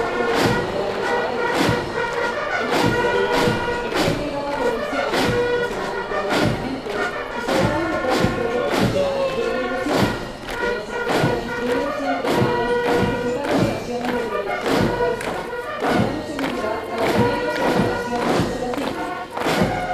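Military band playing a march, a bass drum beating steady time under held brass notes.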